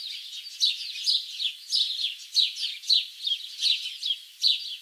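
Small birds chirping in quick short calls, about three or four a second, each falling slightly in pitch.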